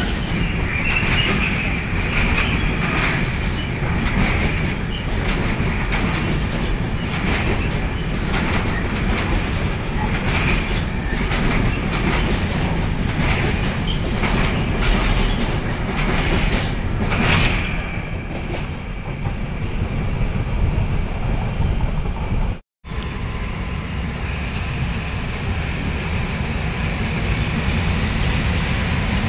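Freight train of container wagons rolling past at speed: dense rumble with wheels clicking over rail joints and a high wheel squeal. About 23 s in the sound drops out for an instant, and a steadier train rumble follows.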